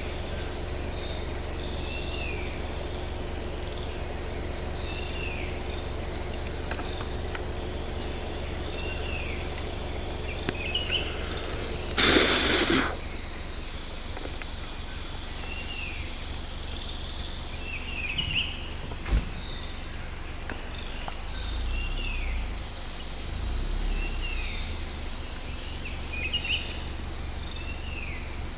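Forest ambience: a bird repeats a short falling call about every second and a half over a steady low rumble, with a brief loud rush of noise about twelve seconds in.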